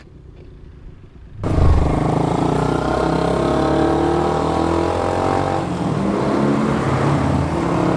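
A vehicle engine running loudly, cutting in suddenly about a second and a half in after a faint lead-in, its pitch drifting slowly up and down.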